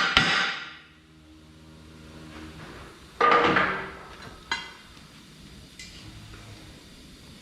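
Hammer blows on steel, driving the pin back through a crusher jaw's curvature plate: one blow just at the start, a heavy blow about three seconds in and a lighter one a second later, each leaving a metallic ring that fades.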